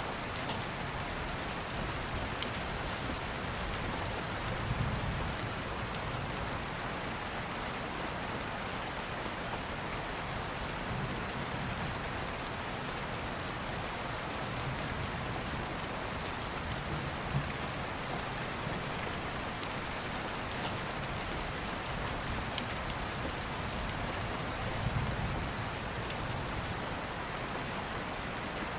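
Steady rain falling, an even hiss, with a few sharp ticks and soft low swells about 5, 17 and 25 seconds in.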